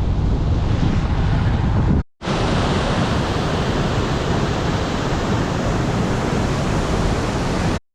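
Wind buffeting the microphone: a steady rushing noise, heaviest in the lows, broken by two brief drop-outs to silence, about two seconds in and near the end.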